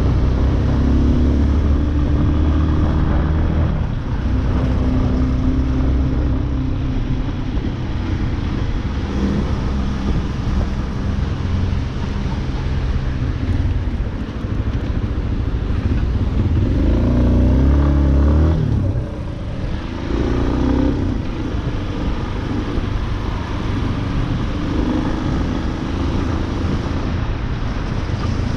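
Yamaha Lander 250's single-cylinder engine running while riding in city traffic, rising in pitch under acceleration about sixteen seconds in, then dropping back as the throttle closes, with smaller pulls later on.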